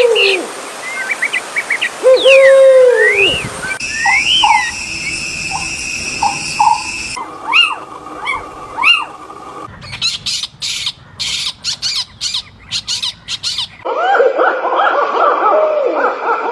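Birds calling, in short stretches that change abruptly every few seconds: long falling whistles, quick rising-and-falling chirps and short repeated notes, and near the end a dense chattering of many birds.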